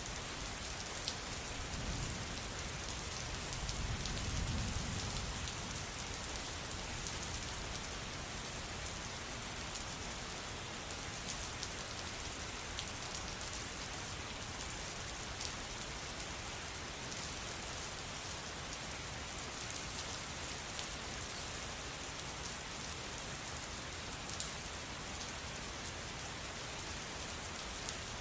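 Steady rain falling, an even hiss with scattered drop ticks, and a brief low rumble about four seconds in.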